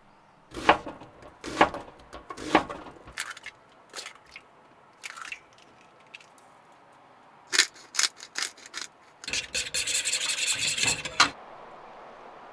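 Cooking sounds: scattered knocks and clatters of cookware and utensils, then a rough scraping rustle for about two seconds, followed by a steady hiss of food starting to fry in a pan.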